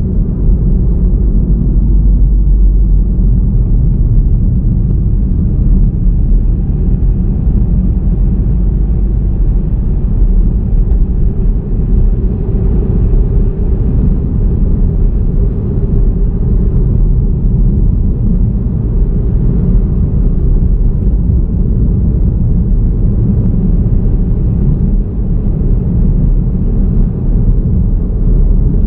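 Steady low rumble of a car driving along a road: tyre and engine noise with no changes or sudden events.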